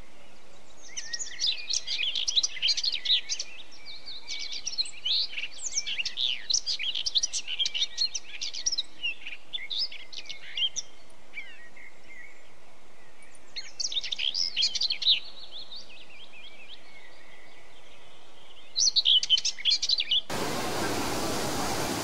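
Small birds chirping and twittering in rapid high bouts, several times over, with pauses between. Near the end it changes abruptly to the steady rushing of a waterfall.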